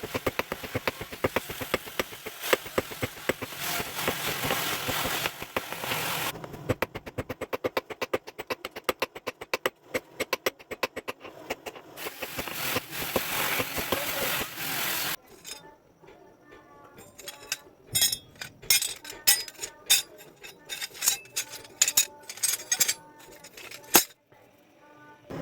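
Metal being hammered while a sickle blade is forged: for the first half a fast, steady run of strikes, about four or five a second, over a steady noise; then slower separate blows that ring like steel on an anvil.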